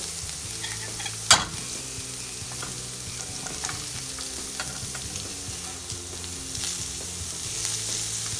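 Seasoned ground beef sizzling in a hot pan while it is stirred, with small scraping ticks and one sharp knock a little over a second in.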